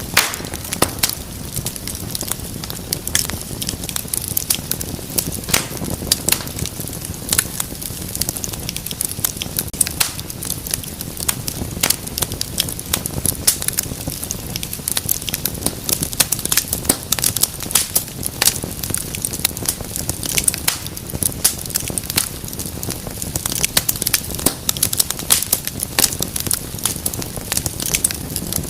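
Wood fire crackling steadily: many sharp pops and snaps, some louder than others, over a low rumble of burning.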